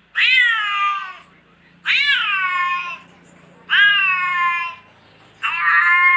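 Domestic cat meowing: four long meows in a row, each sliding up then down in pitch before holding steady, with short pauses between.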